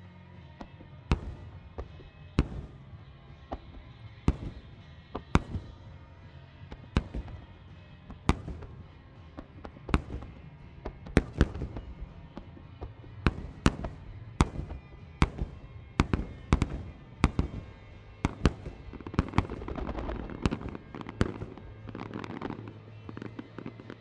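Aerial firework shells bursting one after another with sharp booms, about one a second at first and coming faster midway, then a spell of dense crackling near the end.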